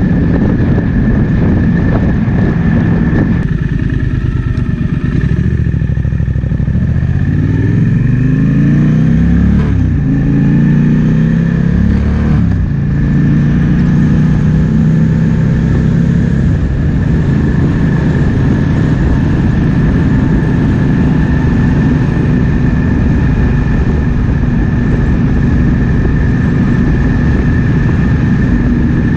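Triumph Speed Twin 1200's 1200 cc parallel-twin engine heard from the rider's seat, with wind buffeting the microphone. About four seconds in the engine pulls harder, rising in pitch through two upshifts, then settles into a steady cruise.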